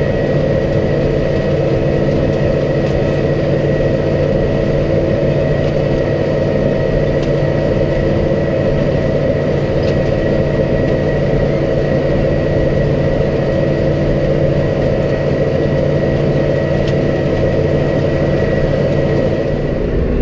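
Farm tractor engine running steadily while pulling a corn planter across the field, with a thin steady whine over the engine.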